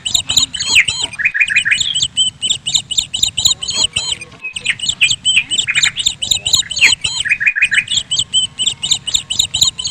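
Many small birds chirping and twittering at once in a dense, continuous chatter of rapid high chirps and short trills, broken by a few brief pauses.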